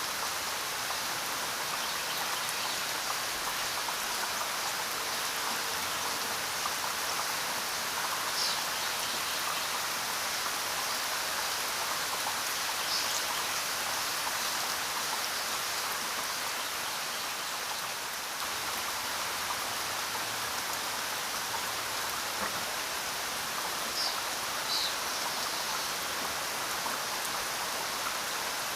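Steady rainfall: an even hiss of rain with a few brief, sharp drop sounds scattered through it.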